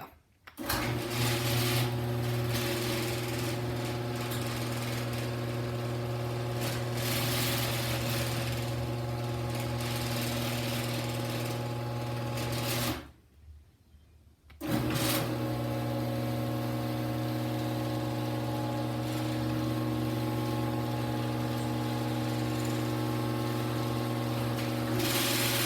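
Genie screw-drive garage door opener running with a steady motor hum as it drives the door up for about twelve seconds, then stopping. After about a second and a half it starts again and runs steadily, bringing the door back down.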